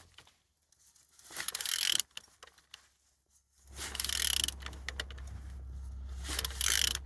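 AJ60UED engine being turned over by hand with a wrench: bursts of ratcheting and mechanical rasping with quiet gaps between, and a steady low hum comes in about halfway through.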